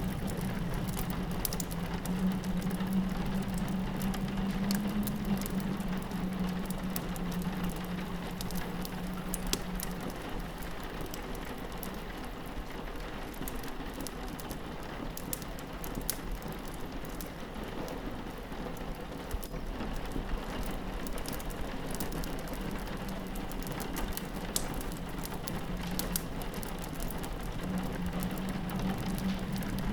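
Rain pattering steadily on a window pane mixed with a crackling wood fire, giving a continuous hiss dotted with many small sharp crackles and taps. A low hum underneath fades about ten seconds in and comes back near the end.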